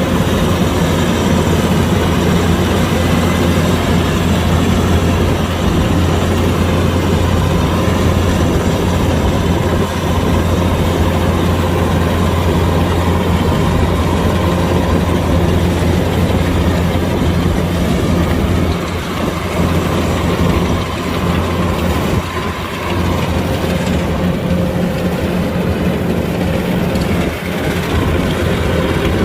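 Kubota DC-105X combine harvester running steadily: a loud diesel engine hum with mechanical whirring over it, easing off briefly a few times about two-thirds of the way through.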